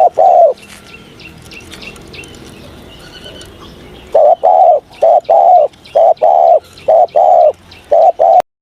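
Spotted dove cooing: two deep coos at the start, then after a pause a longer run of coos in pairs from about four seconds in. Faint high chirps of other small birds can be heard behind it.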